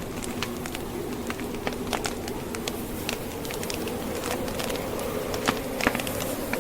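Wood fire crackling, with irregular sharp pops and two louder snaps near the end, over a steady howl of blizzard wind.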